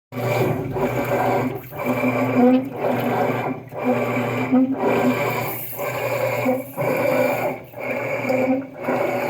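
Amana top-load washing machine agitating with water sloshing, going in a regular rhythm of about one stroke a second, with a grinding noise in each stroke.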